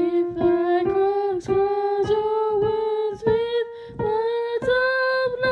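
A woman singing a slow melody line unaccompanied, holding each note with short breaks between them, the pitch stepping gradually higher across the phrase.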